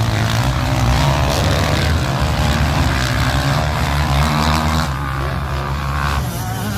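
Motocross dirt bike engines racing on the track, revving up and down in pitch, with several bikes overlapping.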